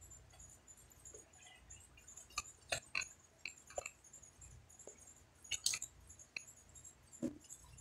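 Faint chewing: scattered short, soft clicks at irregular intervals, closer together in places.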